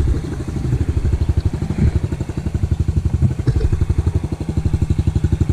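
Small off-road engine idling with an even, rapid putter that holds a steady pace.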